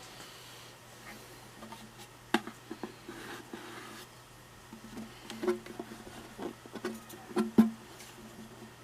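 A Kamaka soprano ukulele being handled during repair work: a series of light knocks and clicks, some of which set its strings or body briefly ringing. The loudest knock comes about three quarters of the way through.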